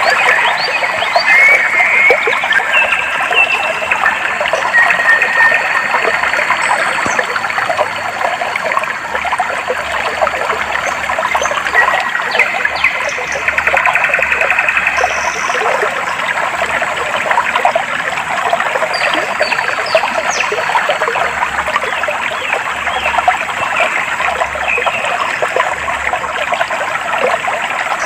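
Clear water flowing and trickling steadily, a dense splashing babble, with scattered short bird chirps and calls above it.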